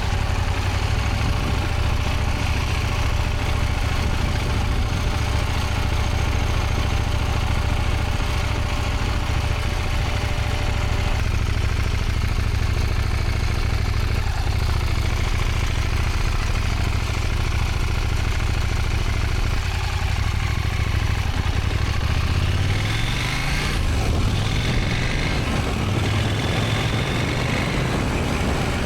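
Motorcycle engine running at low speed with a steady low rumble; the revs rise briefly a little over 20 seconds in.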